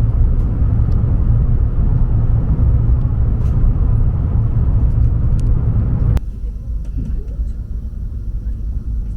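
Renfe Avant high-speed train running, a steady low rumble. About six seconds in it cuts abruptly to a quieter, steady rumble.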